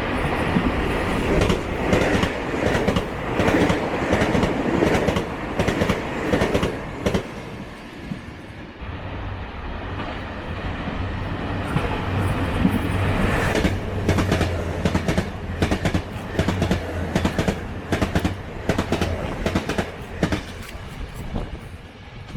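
A train passing close by, its wheels clacking over the rail joints in a long run of sharp knocks, with a steady low hum through the middle of the pass.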